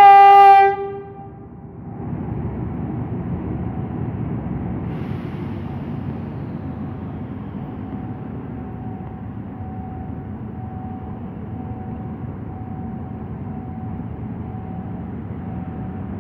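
A train horn gives one short, loud blast. After it, passenger carriages roll slowly past with a steady low rumble of steel wheels on the rails.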